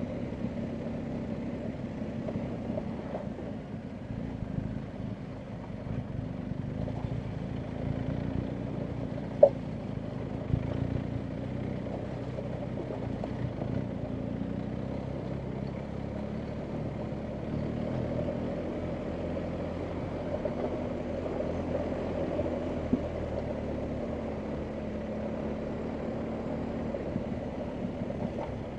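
BMW R1250GS Adventure's boxer-twin engine running steadily at low speed over an off-road track, its pitch wavering slightly, with scattered clicks and one sharp knock about nine and a half seconds in.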